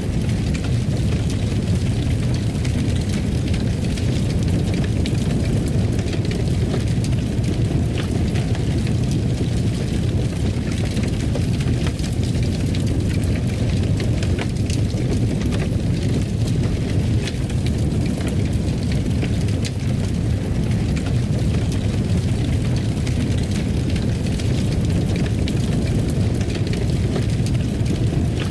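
Wood fire burning in a fireplace: a steady low rumble with scattered sharp crackles and pops throughout.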